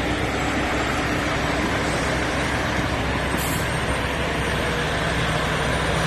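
Trucks driving past: a steady wash of engine and road noise with no let-up.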